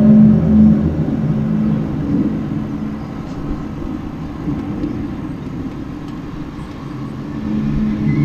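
Low, pitched droning hum holding a couple of steady tones over a rumble. It is loud at first, fades in the middle and swells back near the end. It is one of the reported 'strange sounds' whose source the listener doesn't know.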